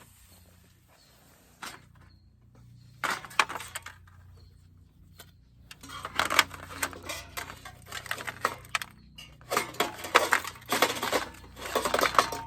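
Metal items clinking and rattling as they are handled, in three bouts of quick clattering: a short one about three seconds in, then longer ones around the middle and near the end.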